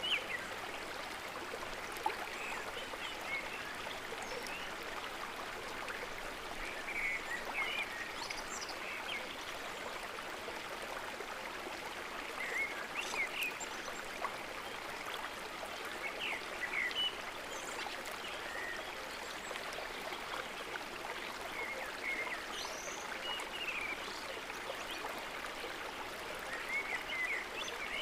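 River water flowing steadily, with birds giving short chirps scattered throughout.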